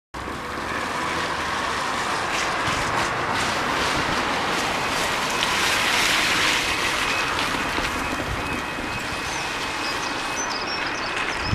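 Train passing below on the line, its rushing rail and engine noise swelling to a peak about six seconds in and then easing off, with a thin steady high tone coming in about halfway.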